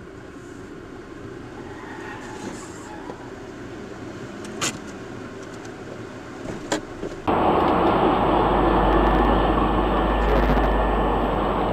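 Steady road noise of a moving car with two sharp clicks. About seven seconds in it jumps abruptly to a much louder, even rumble and hiss of tyres and wind.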